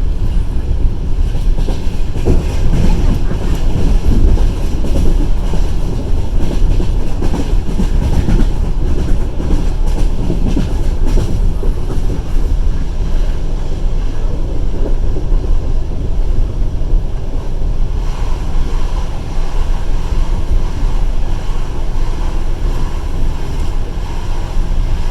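Passenger train running along the line: steady rumble of the carriage with the clatter of wheels on the rails.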